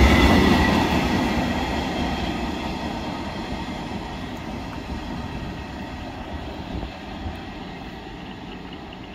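Freight train's wagons rolling on the rails, the rumble fading steadily as the train draws away.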